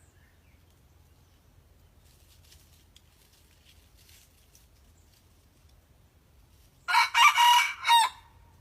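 A young decoy junglefowl cockerel, still learning to crow, gives one short crow of about a second, about seven seconds in, ending in a held note.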